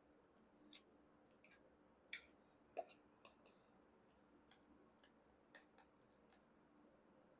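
Near silence with a few faint, scattered clicks at irregular intervals.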